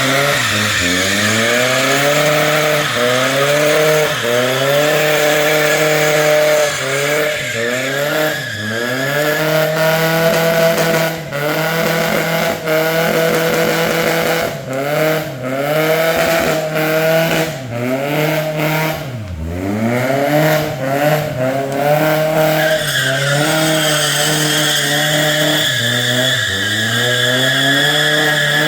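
Toyota AE86 Sprinter Trueno doing a burnout: the engine is revved hard and let fall again and again, with the tyres squealing as they spin against the pavement. The squeal is loudest near the end.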